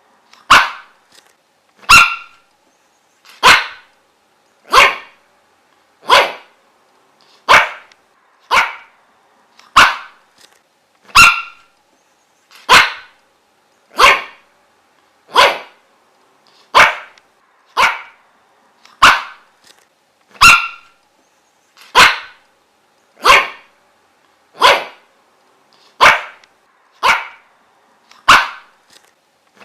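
A dog barking steadily, one sharp single bark roughly every second and a half, about twenty in a row at an even pace.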